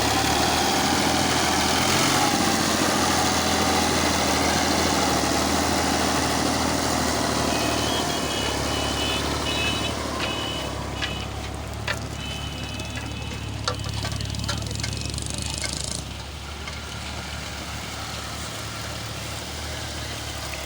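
Diesel tractor engine running steadily under heavy load, louder in the first half and easing off later, with scattered clicks and knocks partway through.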